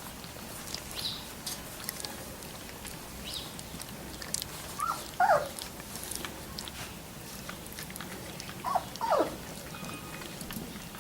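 Three-week-old Labrador retriever puppies giving short squeaky whines: a pair about halfway through and another pair near the end, some sliding down in pitch. Faint scattered clicks sound between the calls.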